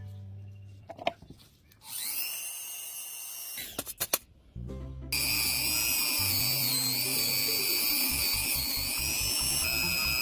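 A small high-speed rotary tool whining: a short run about two seconds in, then a few clicks, then a steady high-pitched run from about halfway through, its pitch wavering slightly under load.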